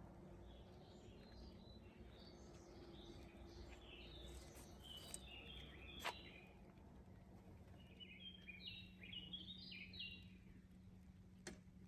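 Songbird singing faintly in two phrases of quick, high chirping notes, the first running for several seconds and the second, shorter and denser, near the end. Two sharp clicks, one about halfway and one just before the end, over a steady low hum.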